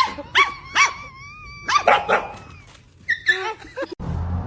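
Dog barking: a quick run of short, sharp barks over the first two seconds, then a few weaker ones. Near the end a louder, noisy background cuts in.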